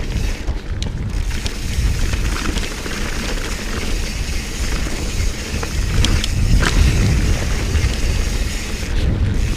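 Mountain bike descending a steep dirt trail, heard from a bike- or rider-mounted action camera: wind buffeting the microphone, tyres rolling over dirt, and the bike rattling, with a few sharp knocks about six to seven seconds in.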